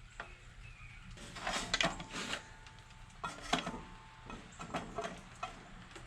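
Light clicks and knocks of a cutting saw being handled and adjusted, its blade depth being set; a faint thin hum comes and goes twice.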